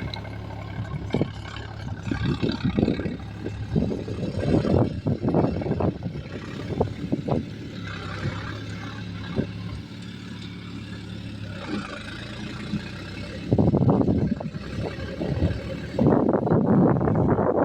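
Heavy diesel machinery engine running steadily, with bursts of clattering knocks and rumbling over it, quieter in the middle and loudest near the end.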